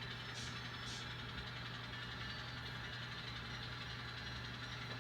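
Sound-equipped N scale Alco diesel locomotives idling steadily, the engine sound played from their onboard decoders' small speakers.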